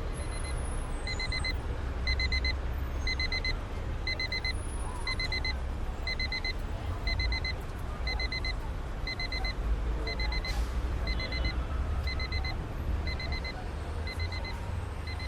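Electronic alarm beeping in quick groups of four, about two groups a second, starting about a second in over a steady low rumble.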